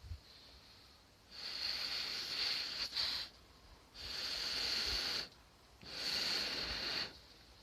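Three long, steady blows through a fire-blowing pipe into a campfire, each a breathy hiss with a high whistling edge, separated by short pauses for breath.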